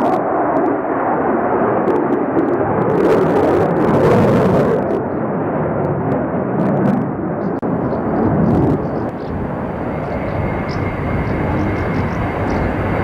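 Fighter jet engines roaring loudly as the jet flies past, a dense steady rush that swells a few seconds in, with a faint high whistle in the last few seconds.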